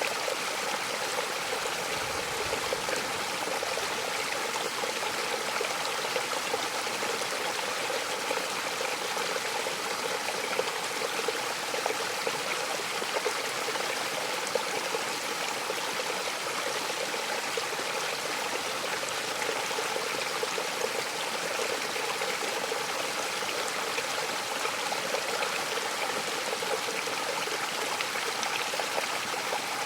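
Waterfall splashing and rushing: a steady, even wash of falling water with no change.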